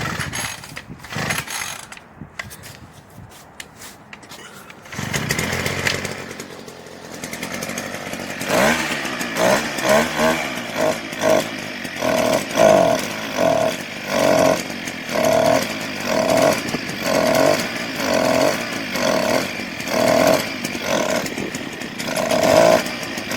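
A GB Moto 49cc mini dirt bike's small two-stroke engine being started cold: scattered clicks and handling noise, then the engine catches about five seconds in. It is then revved in repeated throttle blips, about one a second.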